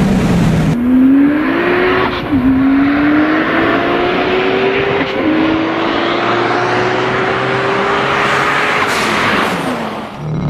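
A car engine at full throttle in a race, its pitch rising through the gears with two quick upshifts, then falling as the driver lifts off near the end. Wind and road noise run underneath.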